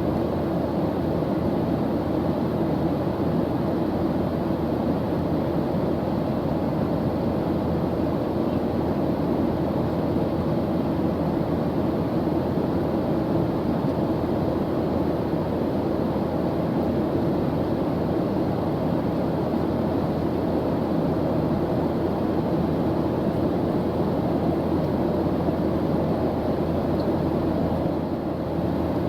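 Airplane engine noise in flight: a steady, unbroken low rushing drone with a faint hum running through it.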